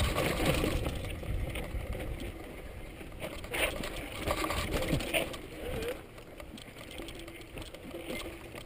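Mountain bike rattling and clattering over a rough rock section, with the rumble of wind and handling on the microphone, louder at first and easing off past the middle.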